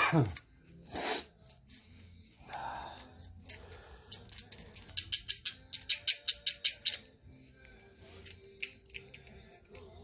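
A run of sharp clicks, about four a second, lasting a few seconds in the middle, after a brief noise with a falling pitch at the start.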